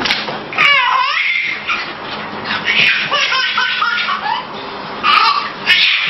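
High-pitched laughter, coming in repeated peals with short breaks.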